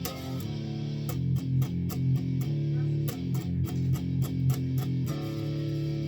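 Guitar played with palm muting: a run of quick, deadened picked strokes on a chord, then about five seconds in a chord left to ring open.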